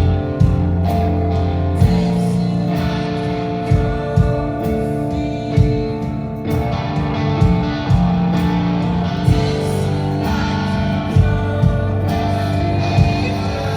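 Rock band playing live: electric guitars ringing over a heavy bass line, with sharp drum hits every second or two.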